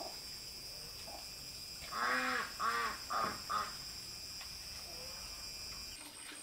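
A bird calling four times in quick succession about two seconds in, each call shorter than the last, over a steady high-pitched drone of insects.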